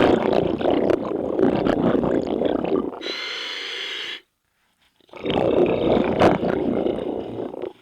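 A scuba diver breathing underwater through a regulator: a long bubbling exhalation of about three seconds, a short hissing inhalation, a pause, then another long bubbling exhalation.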